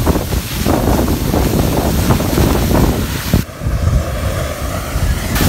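Waterfall's rushing water with heavy wind buffeting on the microphone; the high hiss dulls about three and a half seconds in.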